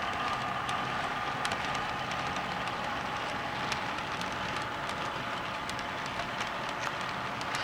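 HO scale model train running on the layout: a steady motor whine with scattered small clicks from the wheels on the track.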